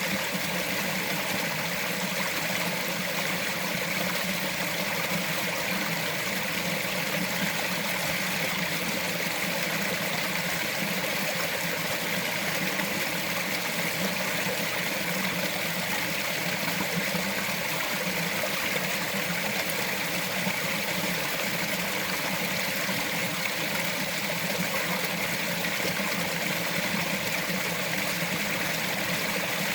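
Small mountain forest stream running, a steady even rush and trickle of water over rocks.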